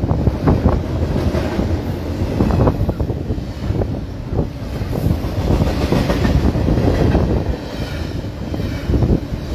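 Double-stack container freight train rolling past at close range: steel wheels clattering over the rail with a steady low rumble.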